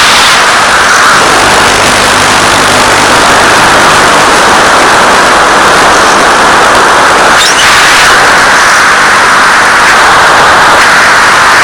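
Loud steady static hiss from an analog 1.3 GHz FPV video link's audio channel, with a brief crackle about seven and a half seconds in.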